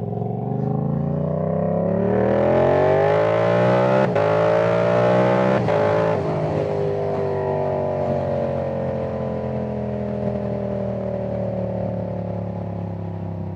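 Yamaha R7's 689 cc parallel-twin engine through an aftermarket exhaust, heard from inside the rider's helmet, accelerating hard. Its pitch climbs, drops sharply at two upshifts about four and five and a half seconds in, then falls slowly as the bike eases off. Wind hiss rises during the hardest acceleration.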